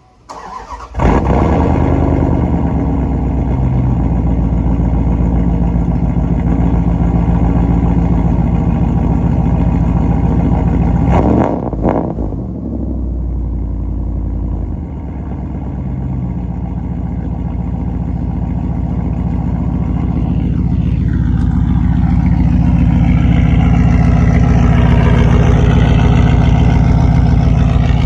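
Straight-piped exhaust with headers on a 2000 Dodge Durango: the engine starts about a second in, then runs loud and steady, with a brief change in the note around eleven seconds in.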